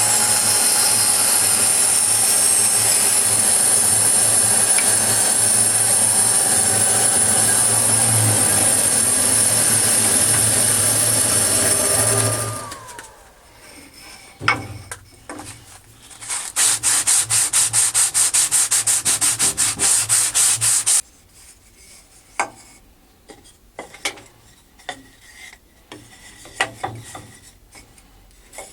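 Scroll saw cutting 3 mm brass plate, its blade rasping steadily through the metal over a motor hum. About twelve seconds in, the saw is switched off and the motor winds down with a falling whine. Light clicks and knocks follow, then a few seconds of rapid, evenly spaced rasping strokes, then more scattered clicks.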